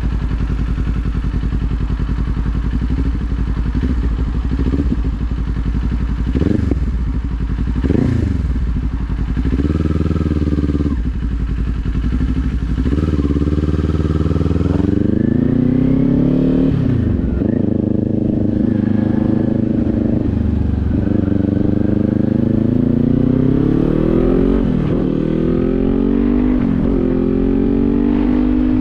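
Kawasaki Z400's parallel-twin engine heard from on the bike, running at low revs at first. From about halfway it accelerates through the gears, the revs climbing and dropping back with each of several upshifts.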